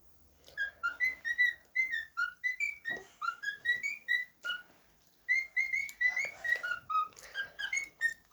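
Cockatiel whistling a quick series of short chirped notes that slide up and down in pitch, courtship song, pausing briefly about halfway through.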